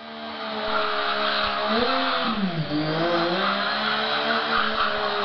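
Triumph 675 inline-three motorcycle engine held at high revs during a burnout, its pitch dipping about two and a half seconds in and climbing back, with a rushing hiss over it.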